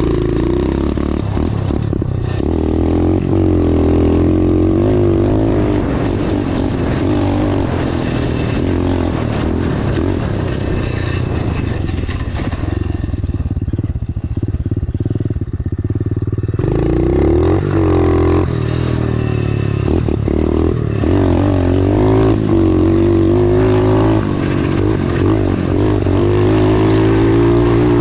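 Dirt bike engine running and revving up and down, its pitch rising and falling repeatedly as it is ridden. For about four seconds around the middle the sound turns duller and lower, then the revving picks up again.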